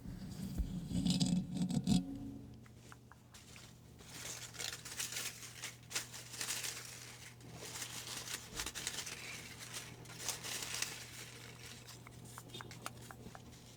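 Paper slips rustling and crinkling as a hand rummages through a hat of folded name slips, in repeated swishing bursts over several seconds. A short, louder low sound comes in the first two seconds.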